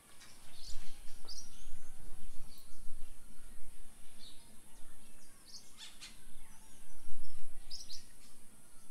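Birds chirping in short, high calls every second or so, over a low rumble of background noise.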